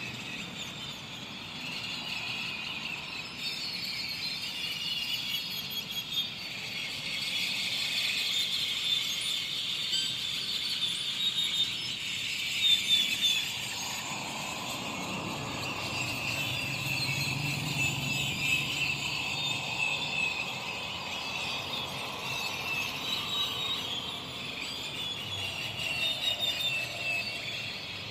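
A flock of birds chattering and squealing together, a dense, continuous chorus of short high-pitched calls. A low rumble swells and fades in the middle.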